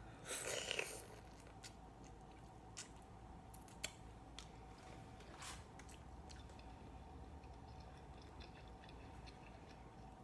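Close-up eating sounds of shrimp and mussels being chewed: a louder wet bite in the first second, then quiet chewing with scattered small clicks and smacks. A faint steady hum runs underneath.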